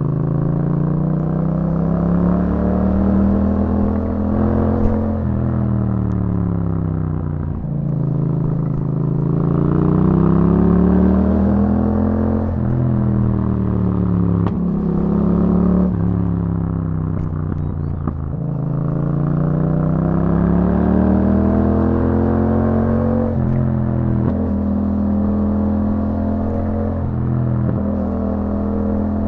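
Yamaha MT-07's 689 cc parallel-twin engine running through an aftermarket Akrapovič exhaust while riding, its pitch rising and falling in smooth swells several times as the throttle is opened and eased.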